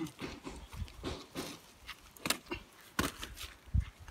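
Scattered knocks and clatters of firewood sticks being handled and stacked into a bonfire pile, with a low thump near the end.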